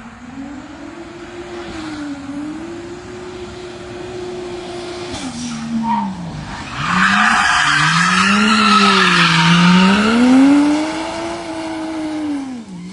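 Drift car engine revving up and down again and again as the car slides, with tyres squealing loudly for several seconds past the middle.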